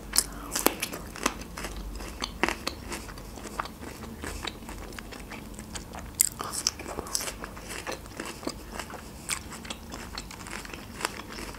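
Close-miked mouth sounds of raw red bell pepper being bitten and chewed: a string of crisp, wet crunches, a few louder bites standing out.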